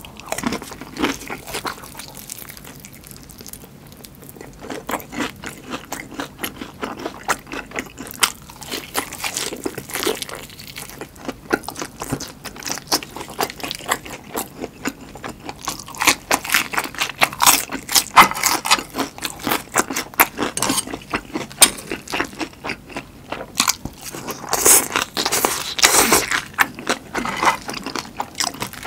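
Close-miked crunching and chewing of battered deep-fried giant chili peppers (gochu twigim): a bite, then rapid crisp crunches of the fried batter that grow denser and louder after the first few seconds.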